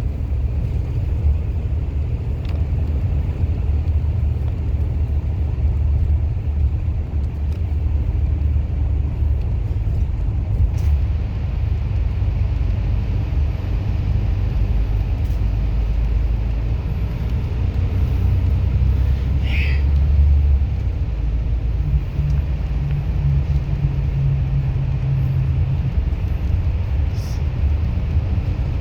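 A moving bus's engine and road noise make a steady low rumbling drone. After about twenty seconds the drone's pitch steps up, and there is a brief squeak about two-thirds of the way through.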